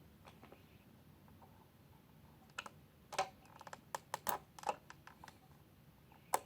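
Hard plastic toy knocking and clicking as it is handled: quiet at first, then about a dozen irregular sharp clicks and knocks in the second half, the sharpest just before the end.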